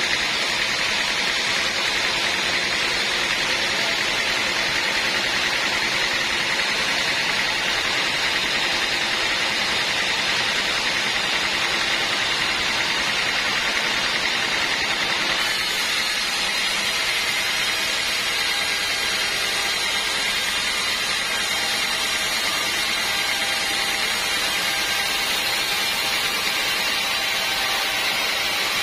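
Sawmill bandsaw running steadily with a continuous loud machine noise; its sound shifts slightly a little past halfway.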